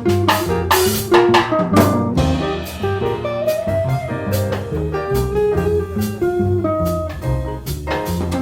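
Small jazz combo playing live: a drum kit with cymbal strokes, a bass line and a melody line.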